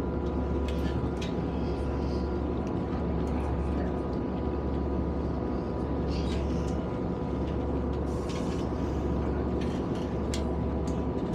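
Diesel passenger train running, heard from inside the carriage: a steady low rumble with a faint steady whine over it and a few light clicks and rattles.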